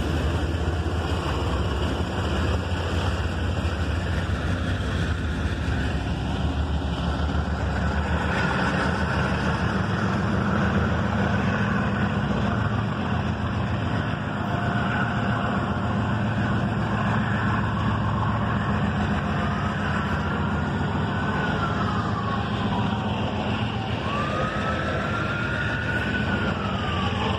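Loaded coal hopper cars rolling past on the rails with a steady low rumble. In the last third a siren joins in, its pitch sweeping up and down.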